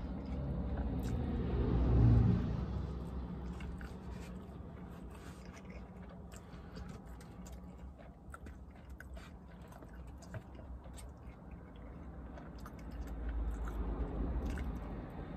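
A person chewing food with small wet mouth clicks, heard inside a car. A low rumble swells about two seconds in and again near the end, the second as a car drives past outside.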